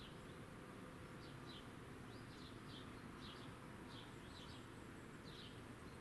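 Faint birdsong: short, high, falling chirps from a small bird, about two a second, over a steady low background hum.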